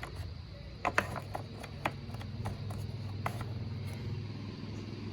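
Oil filler cap being fitted and screwed onto the engine: a string of about ten short clicks and ticks at uneven spacing, over a steady low hum.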